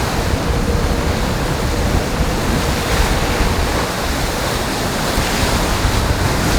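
Steady rush of water and wind aboard an IMOCA racing yacht sailing at speed, an even noise without breaks.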